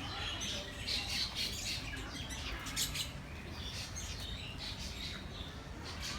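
Several birds chirping and calling in quick, high-pitched notes, overlapping one another throughout.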